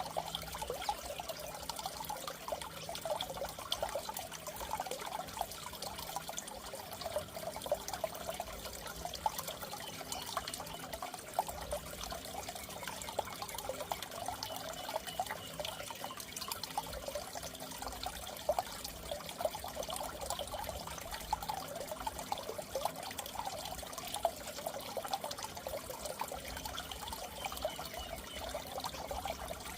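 Water in a goldfish tank trickling steadily, with a dense patter of small splashes.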